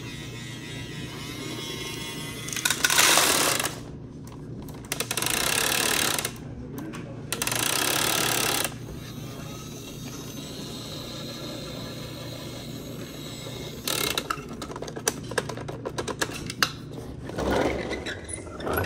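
Toy garbage truck's mechanism working: three loud bursts of whirring noise, then a run of rapid clicks and rattles near the end, over a steady low hum.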